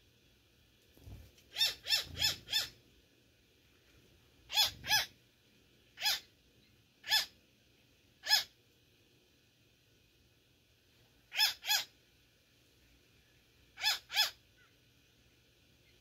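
A bird giving short, harsh calls, thirteen in all: a quick run of four, then pairs and single calls spaced a second or more apart.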